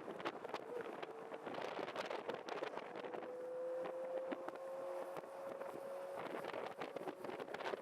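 Honda CB400Four's air-cooled inline-four engine and exhaust running on the move, with wind buffeting the microphone. The engine note climbs slightly through the middle.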